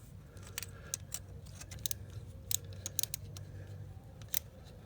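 Irregular sharp metallic clicks and taps of a hand tool working the small Allen-head plug into the aluminum supercharger housing, over a low steady hum.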